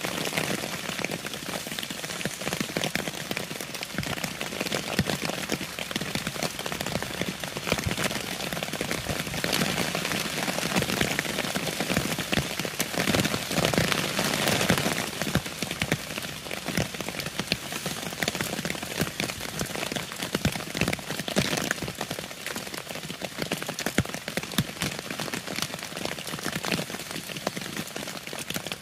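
Steady rain falling on the tarp shelter and the leaf litter: a dense patter of countless small drop impacts, heavier for a few seconds in the middle.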